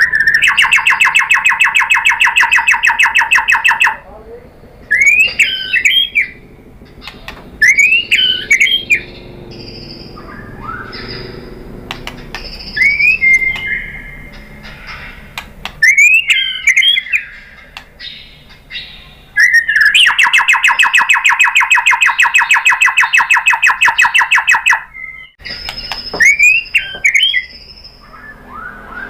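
White-rumped shama (murai batu) singing: clear looping whistled phrases that rise and fall, broken twice by a long, loud, rapid-fire stuttering trill, once at the start and again about two-thirds of the way through.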